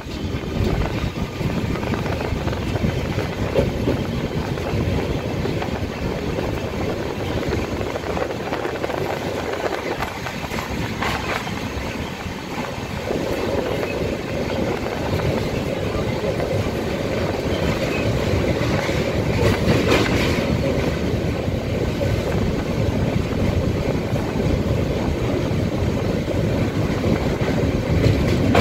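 Passenger train running on the rails, heard from the carriage window: a steady rumble of wheels with a few faint knocks. About halfway through the rumble changes and grows fuller as the train runs onto a steel girder bridge over the river.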